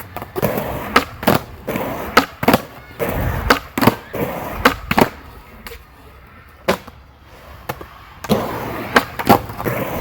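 Skateboard wheels rolling on pavement, with a run of sharp clacks and knocks as the board pops, flips and lands. The board goes quieter for a few seconds in the middle, then rolling and clacking start again near the end.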